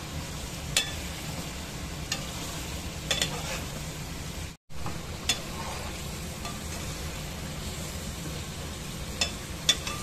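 Chicken pieces sizzling as they fry in hot oil in a metal pot, stirred with a metal slotted spoon that clinks and scrapes against the pot several times. The sound cuts out for a moment a little before halfway.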